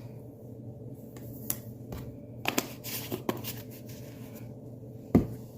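Small kitchen handling sounds while baking powder is measured with a spoon: scattered light clicks and short scrapes, busiest around the middle, then one sharp knock about five seconds in.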